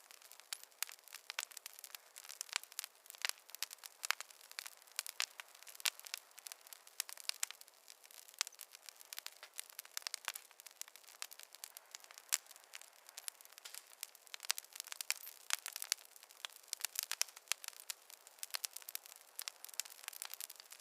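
Wood fire crackling: many small irregular pops and snaps over a faint hiss.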